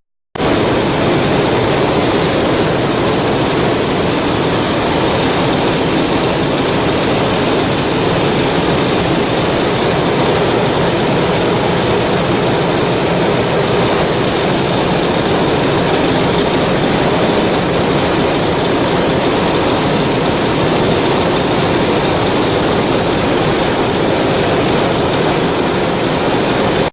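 Ship's Akasaka AX31R main diesel engine running at sea-trial load, a loud, steady, unbroken machinery noise with a high, constant whine over it.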